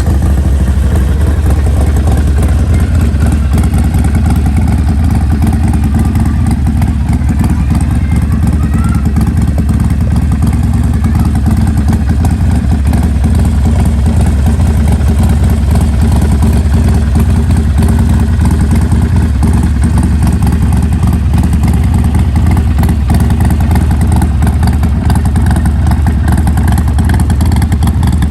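Harley-Davidson Sportster Iron 1200's air-cooled 1200 cc V-twin running at a steady idle through a D&D Bobcat aftermarket exhaust. Its low, bassy exhaust note is what the exhaust was fitted for.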